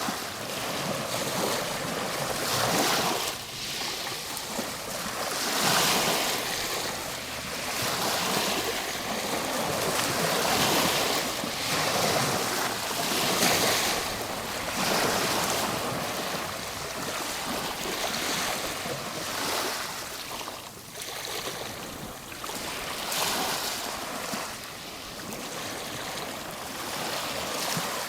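Ocean waves breaking and washing on the shore, the surf rising and falling in swells every few seconds.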